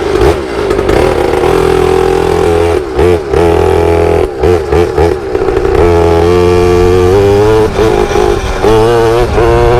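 Pit bike's small single-cylinder engine running under throttle, its revs rising and falling, with a few short drops in engine speed about three to five seconds in.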